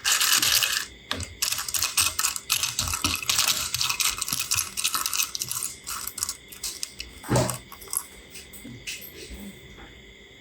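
Loose plastic LEGO bricks clattering and clicking against one another as they are handled, with a heavier knock about seven seconds in.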